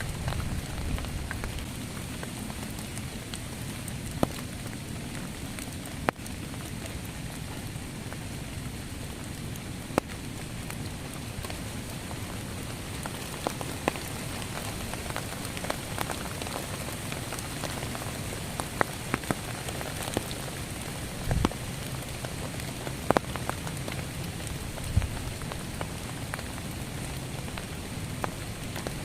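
Heavy rain falling steadily, with sharp, louder drop impacts every few seconds.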